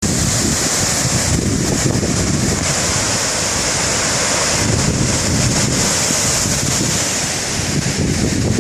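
Strong dust-storm wind buffeting the microphone in gusts, with a steady high hiss over it.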